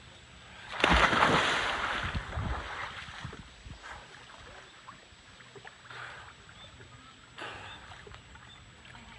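Water splashing in a loud burst about a second in, fading into quieter sloshing and gurgling, with another smaller splash near the end.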